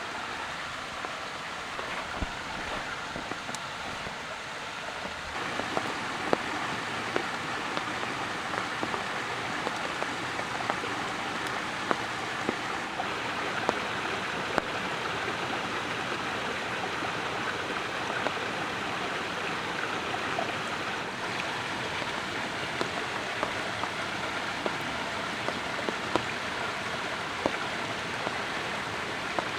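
Wood fire of gathered branches crackling, with sharp irregular pops over a steady hiss that grows louder about five seconds in.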